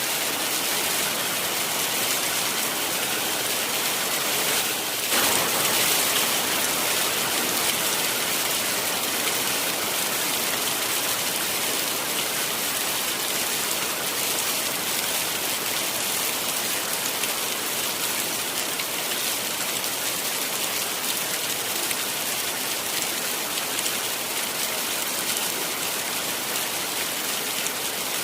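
Heavy rain falling steadily, a dense, even hiss, briefly a little louder about five seconds in.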